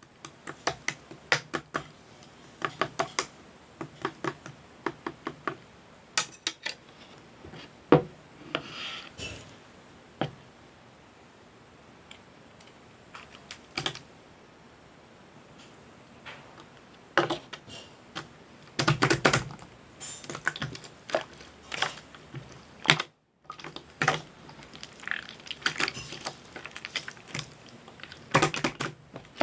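Slime being squeezed and pressed by hand, giving runs of sharp clicks and pops, like typing, with short pauses between them; it goes quieter for a while in the middle.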